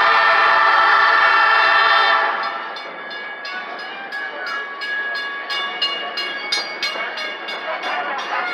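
Locomotive horn sounding one long blast of about two seconds. It is followed by the steady rumble and rhythmic clickety-clack of the train's steel wheels on the track as the passenger car rolls along.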